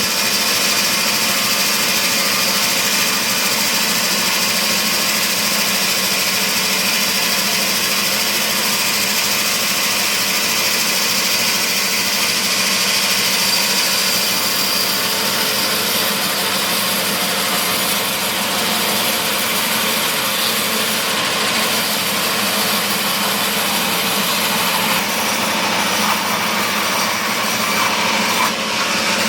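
Sawmill machinery running steadily while processing mahogany timber: a constant hum with a high hiss, slightly changing in texture after about two-thirds of the way through.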